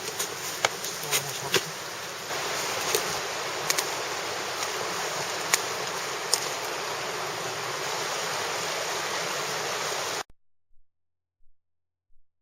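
Campfire burning with a steady hiss and scattered sharp crackling pops. The sound cuts off suddenly about ten seconds in.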